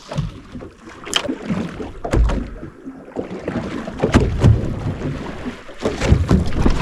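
Water slapping against a fishing boat's hull, with uneven knocks and low thumps.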